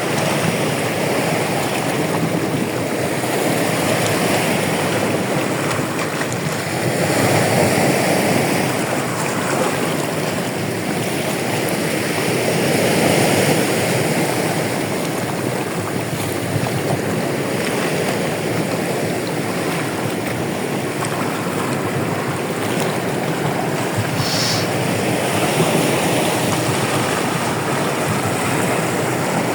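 Sea waves washing onto the shore, a steady rush that swells and ebbs every several seconds.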